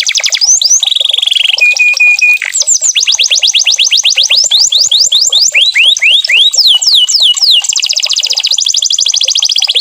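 Domestic canary singing a continuous song of rapid trills: fast repeated notes, a short held whistle about two seconds in, and long runs of quick falling sweeps, with hardly a break.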